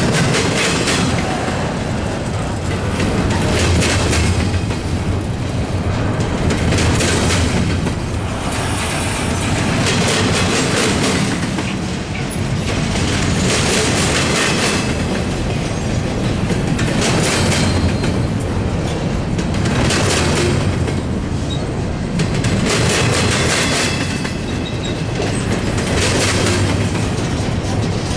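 CSX freight train cars rolling past, wheels clattering over the rails, with a burst of clatter about every three seconds.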